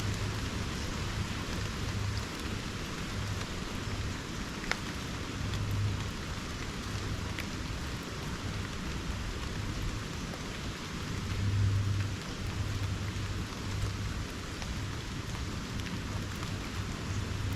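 Steady rain falling on rainforest foliage, with a low rumble that swells and fades and a single sharp drop tick about five seconds in.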